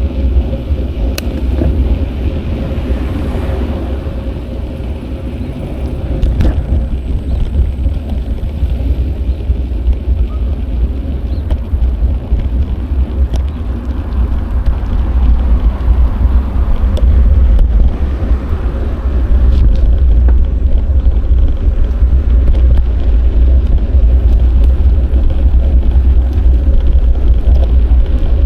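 Wind rumbling on an action camera's microphone while riding a bicycle, with road noise underneath and a few small clicks. The rumble grows louder about two-thirds of the way through, as the riding speed picks up.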